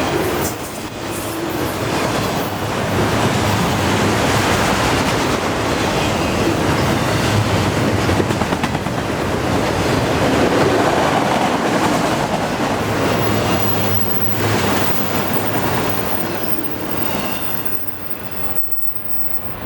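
Freight cars of a CN freight train rolling past at speed, their steel wheels clattering over the rails in a steady, dense rumble. The sound drops away near the end.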